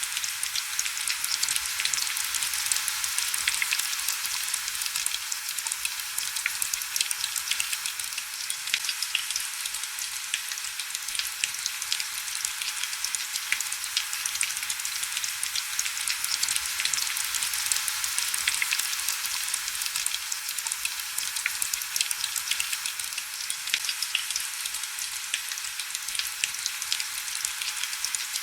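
Heavy rain falling steadily: an even hiss with a dense, crackling patter of individual drops and no low rumble.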